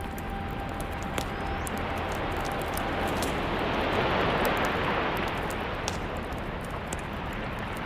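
An ocean wave washing in, a rush of surf that swells to a peak about halfway through and then recedes, with a few sharp crackles from a campfire.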